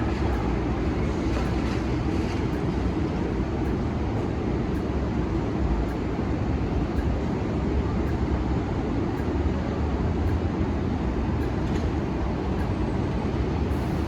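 New York City subway train running through the elevated Queensboro Plaza station: a steady low rumble with faint clicks scattered through it.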